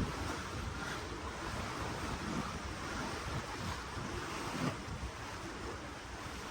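Sea water rushing and splashing alongside a cruise ship, with wind rumbling on the microphone.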